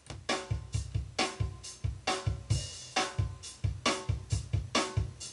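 Acoustic drum kit played in a steady groove: kick drum thumps under snare and cymbal hits, about four to five strokes a second, kicking in right at the start.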